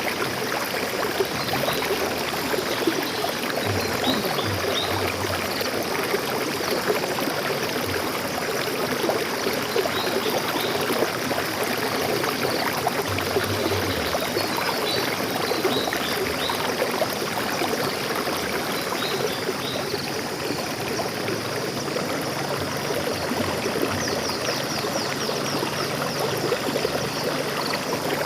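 A forest stream flowing and trickling steadily. Faint, brief high bird chirps come through here and there, and a quick high trill sounds near the end.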